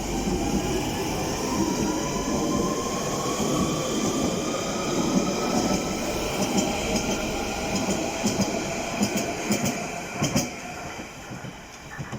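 London Underground Central line 1992 Tube Stock train pulling away: a whine from its traction motors rises steadily in pitch as it accelerates, over the rumble of the wheels. Near the end comes a quick run of clicks from the wheels crossing rail joints, then the sound fades as the train draws off.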